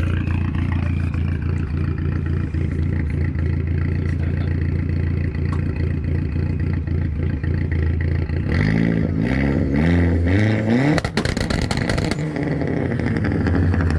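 Mk4 Volkswagen Jetta 1.8-litre turbo four-cylinder idling with a steady low drone, then revved in several quick rising climbs about two-thirds of the way through. On its 2-step launch limiter it lets off a burst of sharp pops and bangs that sound like firecrackers, then drops back toward idle.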